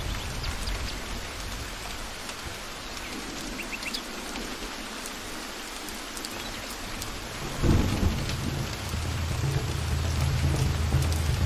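Steady rain falling, with a sudden clap of thunder about two-thirds of the way through and low rumbling after it.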